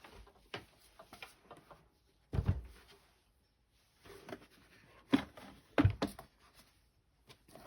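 Things being handled on a work table: scattered soft taps and knocks, with a dull thud about two and a half seconds in and a few sharper knocks around five to six seconds in.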